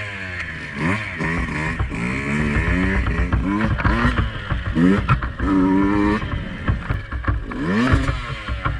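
Two-stroke enduro dirt bike engine revving in repeated short bursts, its pitch rising and falling with each blip of the throttle, with knocks and clatter from the bike over rough ground.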